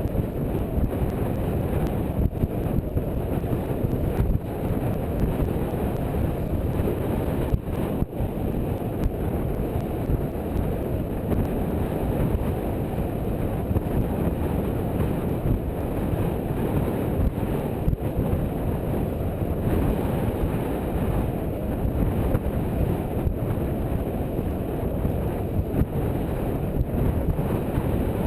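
Wind buffeting the microphone aboard a sailboat under way: a steady, low rush whose level flickers constantly.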